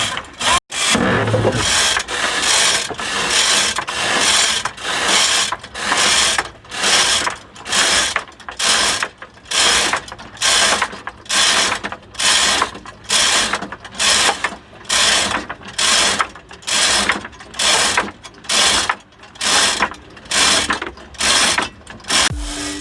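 Hand-operated ratchet winch being cranked in steady strokes, its ratchet clattering about once a second as it hauls a wooden fishing boat toward the sea.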